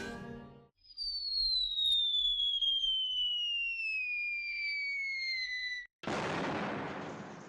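Cartoon falling whistle: one long tone gliding steadily downward for about five seconds, ending abruptly in a sudden explosion-like burst that dies away over the last second and a half.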